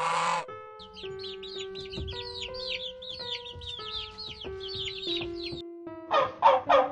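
Chicks peeping: a fast run of high, falling chirps, about three or four a second. A short loud honk comes at the start, and a dog barks a few times near the end.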